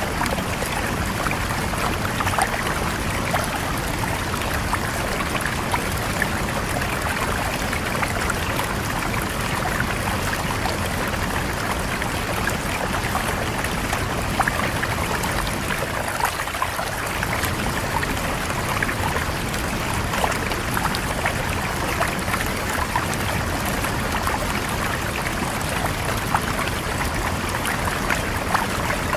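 Shallow river or stream flowing steadily, a continuous rush of water with many small splashes and gurgles.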